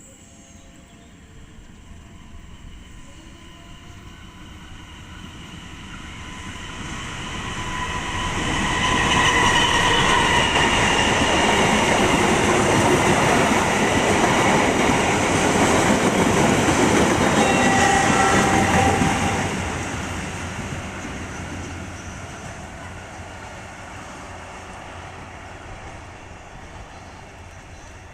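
A passenger train approaching and passing at speed, its wheels clattering over the rails. It swells over a few seconds, is loud for about ten seconds in the middle, then fades away.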